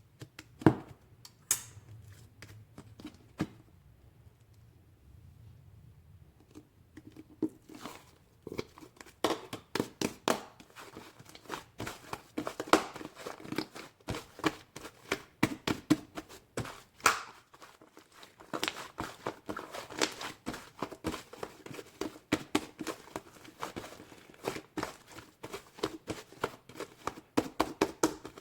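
Close-up crinkling and crackling, a dense run of small sharp clicks from something being handled, sparse at first and continuous from about eight seconds in.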